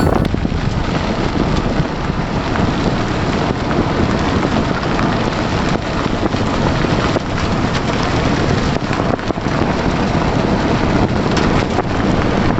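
Heavy monsoon rain, a loud steady rush with wind buffeting the microphone.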